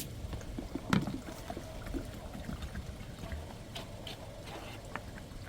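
Low irregular rumble of wind or handling noise on the microphone, with scattered light clicks and taps and one louder knock about a second in.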